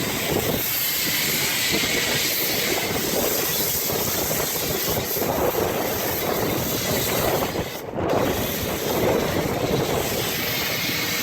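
Pressure washer spraying soap through a dual foam cannon on the wand: a steady hiss of spray, with a brief dip about eight seconds in.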